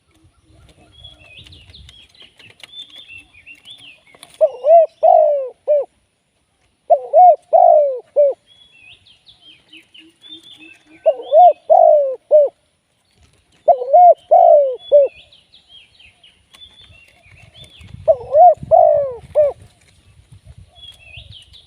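Spotted dove cooing: five loud phrases of three or four quick falling coo notes, repeated every three to four seconds. Small birds chirp faintly in between.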